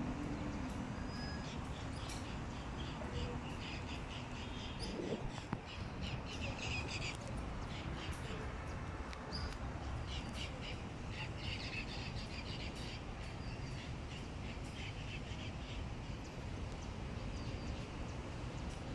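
Birds calling in quick series of short, repeated calls, one cluster about six seconds in and another from about ten to thirteen seconds in, over a steady low outdoor background rumble.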